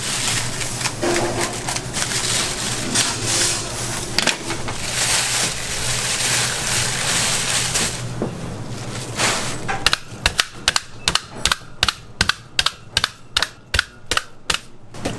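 A steady hiss for about the first half, then a cleaver chopping rapidly on a cutting board, sharp knocks about four a second.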